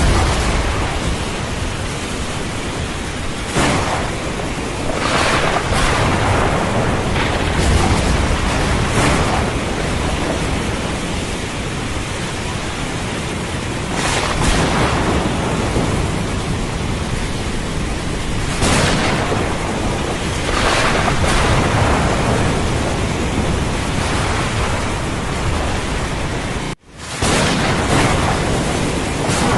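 Thunderstorm ambience: a steady hiss of heavy rain with thunder rumbling and swelling up several times. Near the end the sound cuts out for an instant and comes straight back, an edit seam in the recording.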